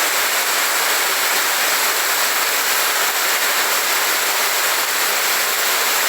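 Heavy rain and storm runoff rushing along a flooded street: a steady, unbroken rush of water.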